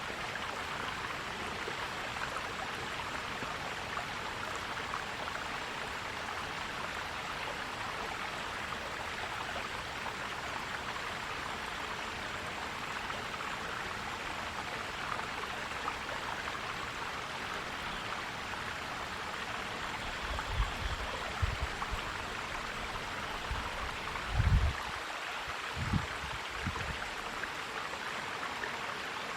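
Mountain stream flowing, a steady rush of water. A few short low thumps come in the second half, the loudest about three-quarters of the way through.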